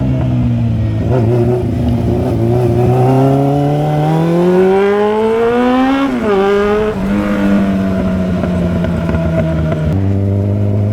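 Motorcycle engine under way, revs climbing steadily for about four seconds, then dropping sharply at a gear change about six seconds in. It runs steadier at lower revs and steps down again near the end.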